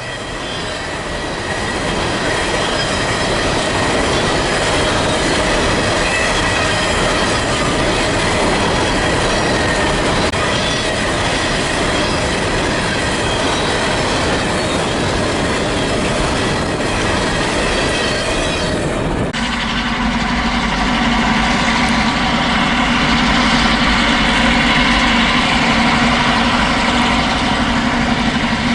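A train rolling past on the rails, with a rumbling clatter of wheels and faint high wheel squeal. About two-thirds of the way through it cuts abruptly to a steadier sound: a low engine hum with even tones, likely a diesel locomotive working nearby.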